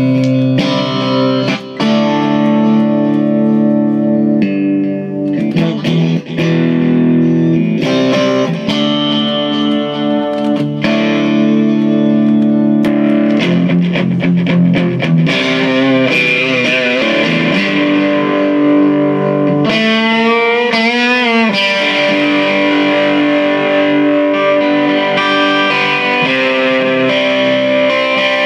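Classic Vibe Stratocaster electric guitar played through a Donner boost, an Eno Trouble Drive overdrive and delay into an Excelsior amp and 2x12 cabinet. Ringing chords and single notes turn to a thicker, overdriven tone after about fifteen seconds, with wavering, bent notes a little past the middle.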